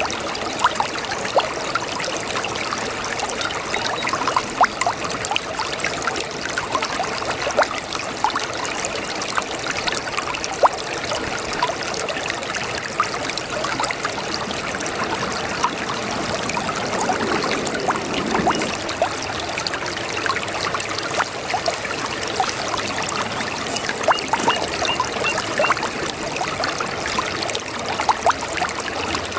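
A small brook babbling: water trickling and splashing over stones, a steady stream of little splashes and gurgles, with a fuller gurgle about two thirds of the way through.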